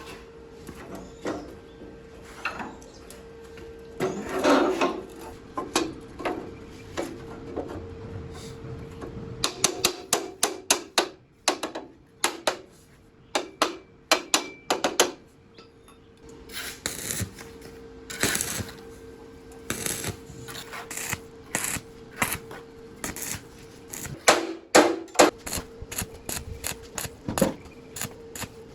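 Irregular sharp taps and clicks, like hand tools working on metal, coming in quick runs a third of the way in, past the middle, and again near the end, over a faint steady tone.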